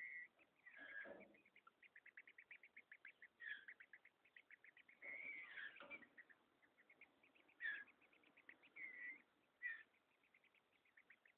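Green-winged saltator (trinca-ferro) chicks begging, a fast train of short high chips at about ten a second. The chips are broken by about half a dozen louder slurred calls.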